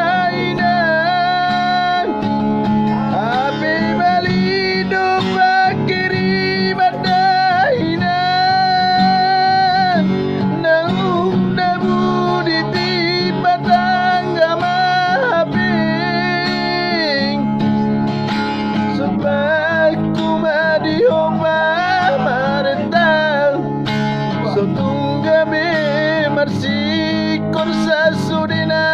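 A song: a singing voice with long, wavering held notes and sliding pitch over plucked guitar accompaniment.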